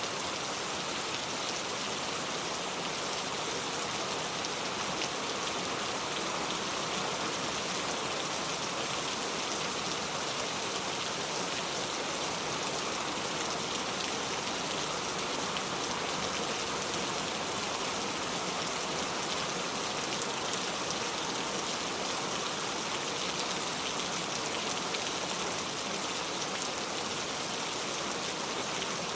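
Steady rain falling in the countryside: an even hiss of many drops that does not let up.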